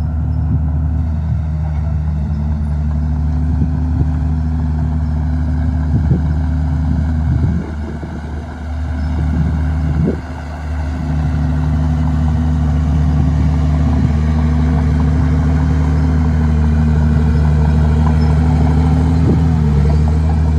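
Komatsu D51PX bulldozer's diesel engine running hard as it pushes dirt, its pitch sagging and recovering several times under load. A few short knocks come through, around six, seven and ten seconds in and near the end.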